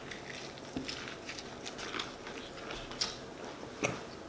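A person chewing a mouthful of shrimp po' boy sandwich, a run of small scattered mouth clicks with two sharper ones about three seconds in and near the end.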